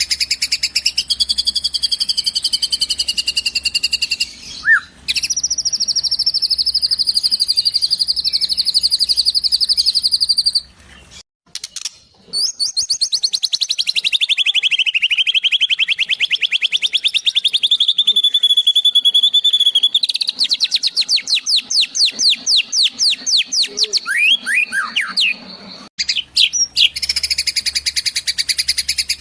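Eurasian tree sparrow and kingfisher calls: fast, high-pitched trills and chirps in several spliced passages. Some sweep down in pitch, and the sound breaks off abruptly about a third of the way in and again near the end.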